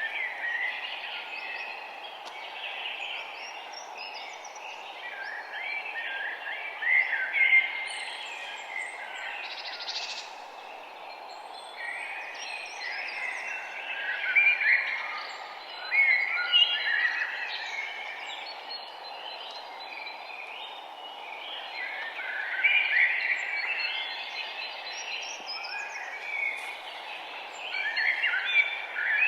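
Several songbirds singing and chirping in overlapping phrases and trills, with a few louder bursts now and then, over a steady low background hum.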